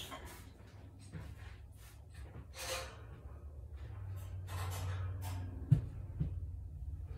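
Household cleaning noises in a small room: scattered rustles and light knocks, a short hiss a little under three seconds in, and one sharp knock near six seconds in, the loudest sound.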